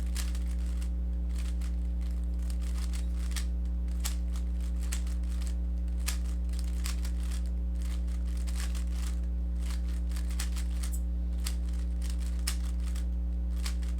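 Plastic speed cube being turned quickly through algorithms: a run of irregular, rapid clicks of the layers turning, over a steady low electrical hum.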